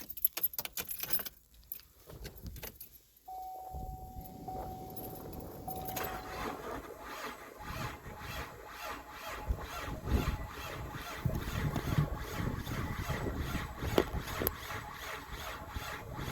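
Keys jingling, then a 2011 GMC Acadia's 3.6-litre V6 being cranked by its starter in sub-zero cold, turning over without catching. A steady chime tone sounds for a few seconds once the cranking begins.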